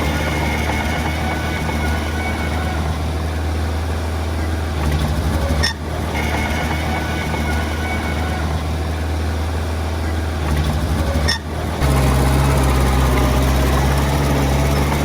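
Heavy diesel engine of earth-moving machinery running steadily, with two brief dips in the sound; after the second, the engine note sits lower and a little louder.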